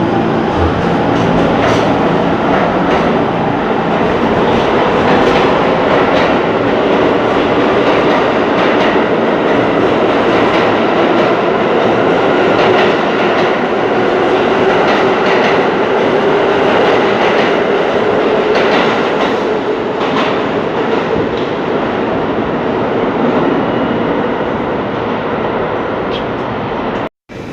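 A train running by, a steady rumble of wheels on rail with repeated clicks over the rail joints. The sound drops out abruptly for a moment just before the end.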